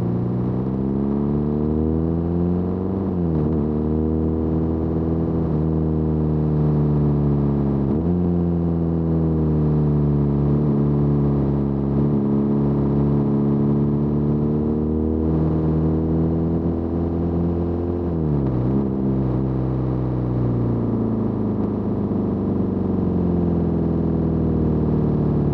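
BMW R nineT air/oil-cooled boxer twin running through its stock Akrapovič muffler with the baffle removed, giving a loud, open exhaust note. The pitch climbs and eases and drops sharply about three, eight and eighteen seconds in.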